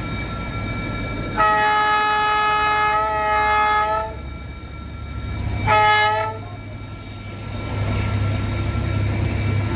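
D19E diesel-electric locomotive sounding its multi-tone air horn: one long blast of about two and a half seconds, then a short blast. Its diesel engine hums underneath and grows louder near the end as the train comes closer.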